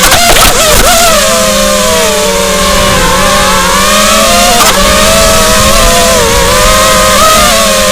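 Racing drone's motors and propellers whining, the pitch wavering up and down with the throttle. A few sharp clicks come near the start and about halfway through.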